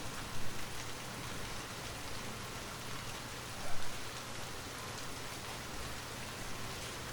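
Steady rain falling on a surface, an even hiss of drops that briefly swells louder twice, about half a second and nearly four seconds in.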